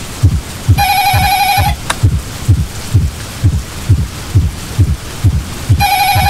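A telephone rings twice, each ring a warbling electronic trill about a second long, one about a second in and one near the end. Under the rings, a low heartbeat sound effect pounds steadily at about two to three beats a second.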